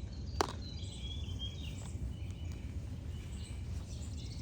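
Outdoor ambience: a steady low rumble with faint bird chirps, and a single sharp click about half a second in.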